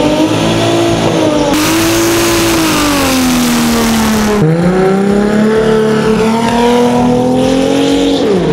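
Drag race car engine held at high revs, its pitch sliding slowly, with a sharp dip and climb about four seconds in and again near the end. A loud hiss runs for about three seconds in the first half.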